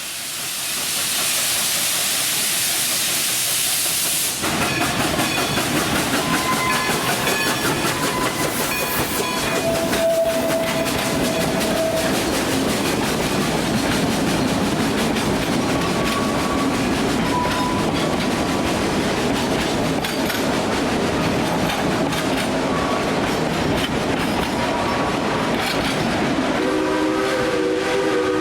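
Narrow-gauge steam locomotive No. 192 'Klondike Katy' of the Dollywood Express: a steady hiss of steam for about four seconds, then the train running, with a dense clatter and a few short tones. Near the end a chime steam whistle sounds several notes together.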